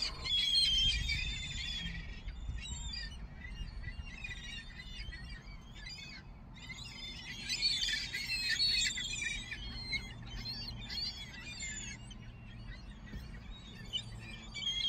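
A flock of gulls calling, many short, high squeaky cries overlapping, busiest near the start and again around the middle, over a low steady rumble.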